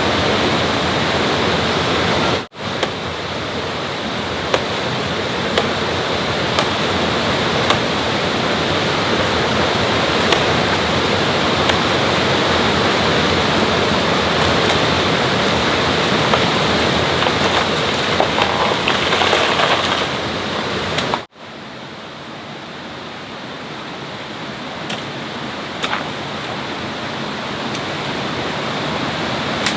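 Steady rushing water, like a stream or small waterfall, with a few faint ticks. It cuts out briefly twice and comes back quieter after the second break.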